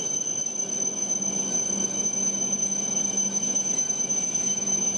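W7 series Shinkansen train at the platform: a steady hum and rumble with a continuous high-pitched whine over it.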